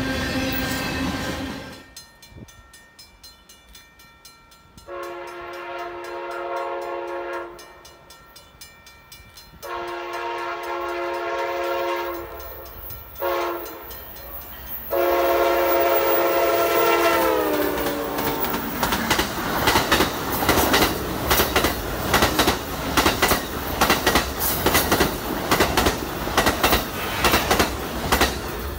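Freight or passenger train approaching and passing: its multi-chime locomotive horn sounds the grade-crossing pattern of two long blasts, a short and a long, the last blast dropping in pitch as the locomotive goes by. The cars then rumble past with a rapid clickety-clack of wheels over rail joints.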